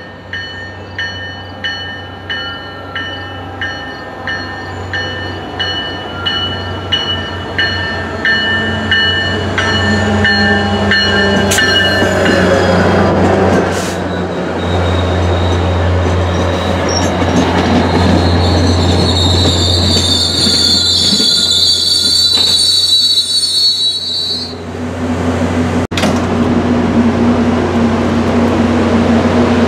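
MBTA commuter train with an EMD F40PH-3C diesel locomotive arriving. A bell rings about twice a second as it approaches, then the diesel's deep drone and rolling coaches take over, with a high wheel-and-brake squeal for a few seconds as it slows. Near the end the standing train gives a steady hum.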